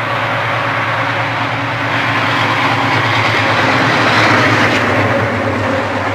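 A diesel freight train running past: a steady engine drone with rail and wheel noise, growing louder toward about four seconds in and easing off after.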